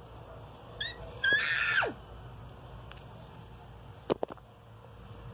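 A domestic cat meows: a short chirp, then one longer, louder meow that drops in pitch at the end. A couple of sharp clicks follow a little after the middle.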